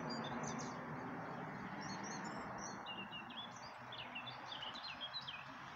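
Small songbirds chirping, a run of short quick high notes that grows busier in the second half, over steady low background noise.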